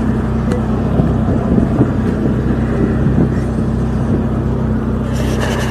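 Steady low hum of a car engine idling close by, with rustling and handling noise on the microphone.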